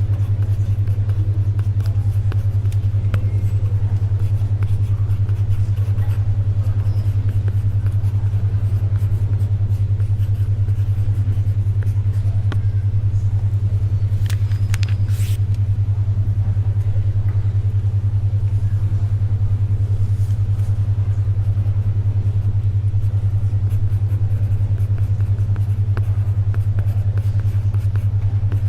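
A steady low hum near 100 Hz pulsing rapidly and evenly, a 10.2 Hz alpha-wave brainwave tone, over faint library ambience with scattered small ticks and a brief paper rustle about halfway through.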